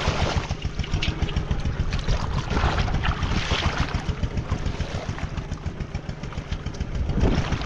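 A small engine running steadily with a rapid, even putt-putt beat, along with a haze of noise.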